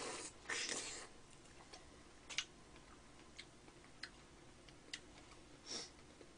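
A bite into a large, soft strawberry, then quiet chewing with a few short, wet mouth clicks spaced about a second apart.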